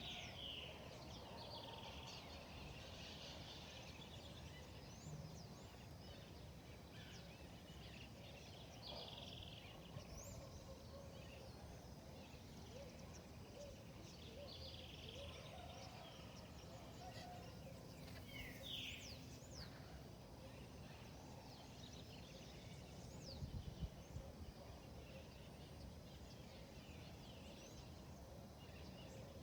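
Faint wild birds calling and chirping at scattered intervals over a steady background hiss, with short quick whistled glides. A brief cluster of low knocks comes about three-quarters of the way through.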